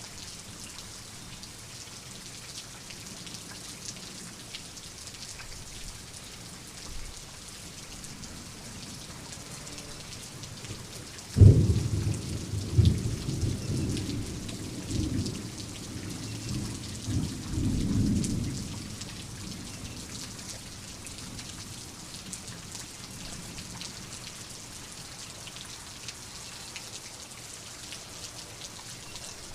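Steady rain falling, with a sudden sharp thunderclap about a third of the way in that rolls on in rumbling swells for about seven seconds.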